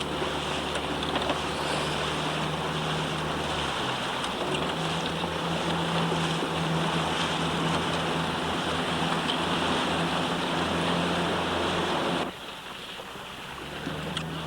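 A boat's engine runs steadily under water rushing past the hull and wind on the microphone. About twelve seconds in the sound drops abruptly, and the engine hum comes back near the end.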